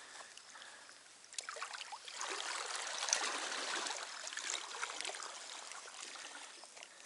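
Creek water trickling and splashing close by, swelling about two seconds in and easing off toward the end.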